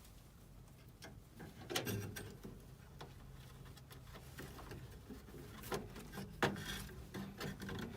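Scattered clicks, knocks and rustling of hands working with tools and parts, over a faint low steady hum.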